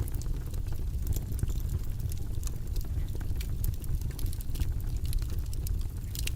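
A steady low rumbling background noise, with many small irregular clicks or crackles scattered over it.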